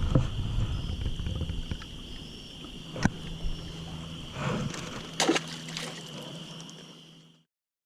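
Water sloshing and small knocks around a fishing kayak, with a sharp click about three seconds in and a steady high-pitched buzz behind. The sound fades out and cuts to silence near the end.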